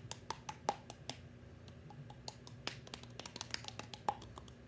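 Hollow popping clicks made by tapping a hand against an open mouth, coming irregularly several times a second, some with a short pitched pop.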